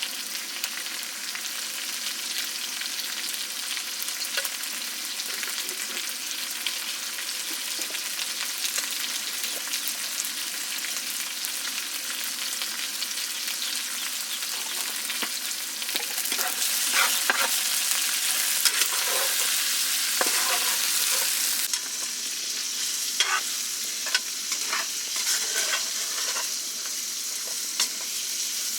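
Food frying in a pan with a steady sizzle that grows louder for several seconds past the middle. In the second half a run of short scraping strokes comes from stirring in the pan.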